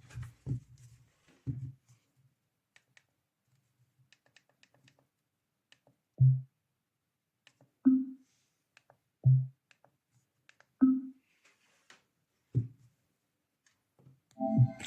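A series of short, soft low thuds about every second and a half, with faint clicks between them. Music starts just before the end.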